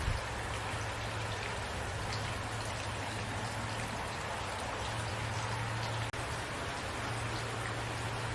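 Steady rain falling at night, a continuous hiss with scattered individual drops ticking on a surface, over a low steady rumble.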